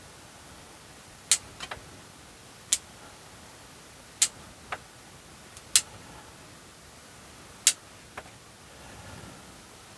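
Bonsai pruning scissors snipping conifer shoots: five sharp snips spaced a second or two apart, some followed by a softer click.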